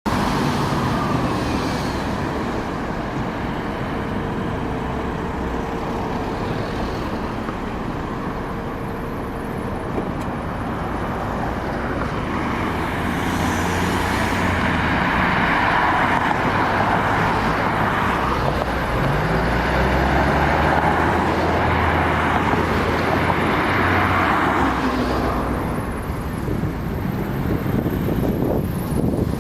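Street traffic: steady road noise with vehicles passing, swelling louder twice in the second half, one engine's pitch rising as it goes by.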